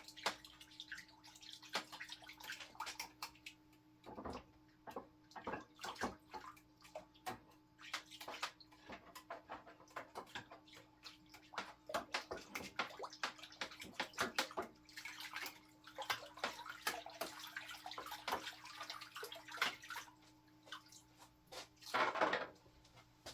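Oxalic acid bath being stirred: water sloshing and swirling, with many irregular knocks and taps against the container, and a stronger splash near the end.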